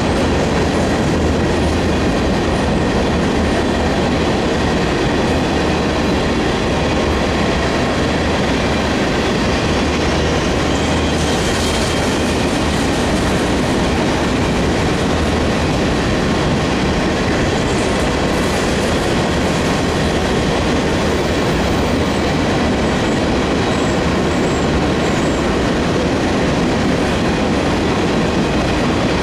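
Covered hopper cars of a Union Pacific grain train rolling past: a steady rumble and clatter of steel wheels on the rails.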